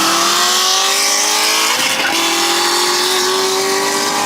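A car engine accelerating hard, its pitch climbing steadily. About two seconds in there is an upshift: the pitch drops and then climbs again.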